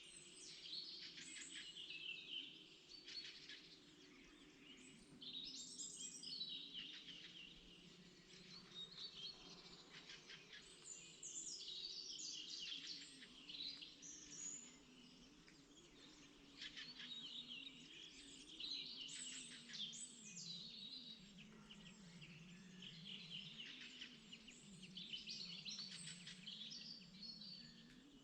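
Songbirds singing: overlapping runs of high chirping and trilling phrases, over a faint low hum.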